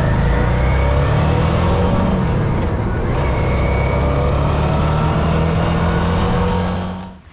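Motorcycle engine running at road speed with rushing wind noise, the engine note holding steady and creeping slightly higher, then cutting off abruptly near the end.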